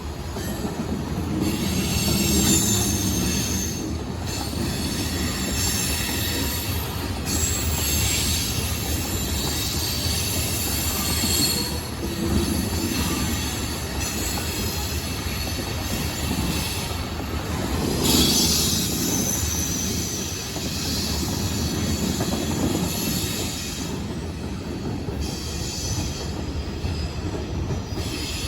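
Train rolling past with its wheels squealing on the rails: high-pitched squeals come and go repeatedly over a steady low rumble.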